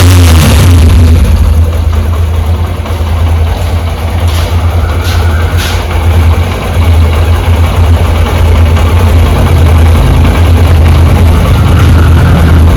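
Honda SP 125's single-cylinder engine idling steadily, running smoothly now that the rockers are replaced and the tappets reset. A few sharp clicks come about four to six seconds in.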